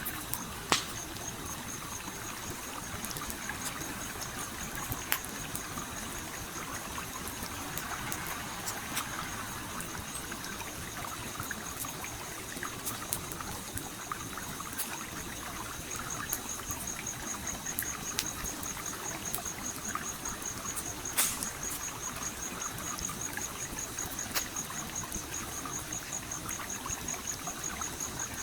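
Stream water flowing and trickling steadily, with a campfire crackling and popping over it in scattered sharp snaps, a few louder pops standing out. A high, fast-pulsing trill runs underneath, stronger in the second half.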